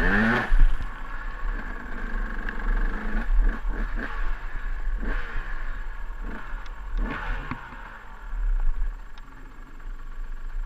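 KTM EXC 200 two-stroke dirt bike engine revving on and off the throttle, its pitch rising sharply at the start and again several times, with lower running in between.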